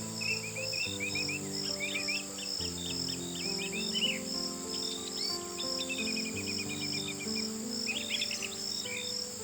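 Crickets chirping in a steady pulse, about three chirps a second, with small birds twittering in short bursts through it, over soft slow music of held low notes.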